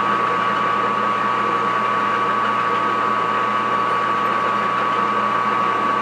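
Metal lathe running steadily, a constant high whine over a low hum from its motor and gearing.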